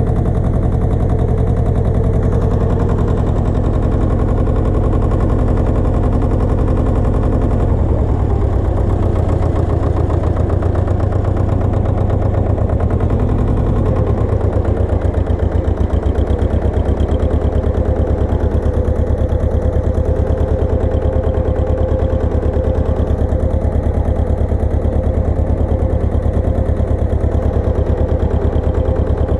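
Pasquali 980 EX tractor engine running steadily with a fast, even chugging; its note changes about eight seconds in and again around fourteen seconds.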